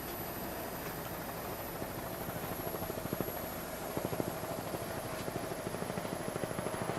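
Helicopter running with a steady, fluttering rotor beat over its engine noise.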